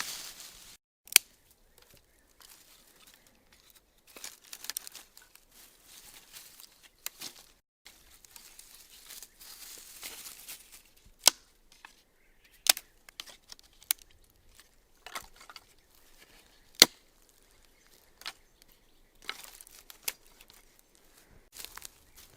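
Hand food preparation: bursts of scraping and rustling, with a few sharp, separate clicks or knocks between them.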